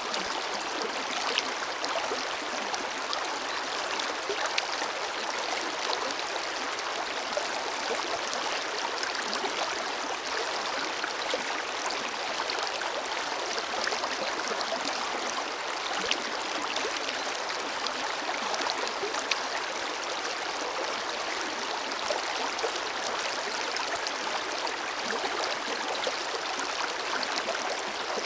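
Forest river flowing: a steady rush of water with small splashes and gurgles throughout.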